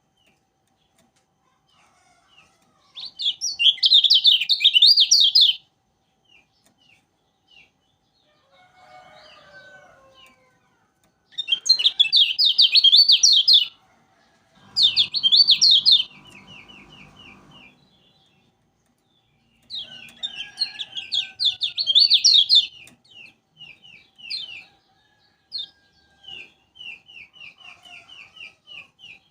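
Kecial kuning, a Lombok white-eye, singing loud bursts of rapid high-pitched twittering a few seconds long, with pauses between them and runs of short repeated chip notes. A low rattling noise runs under the song for a few seconds about halfway through.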